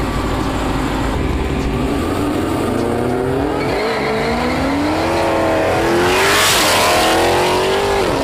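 Dodge Hellcat's supercharged V8 accelerating hard, its pitch climbing through the gears and dropping briefly at the upshifts, about four seconds in and again near the end. It is loudest about six to seven seconds in.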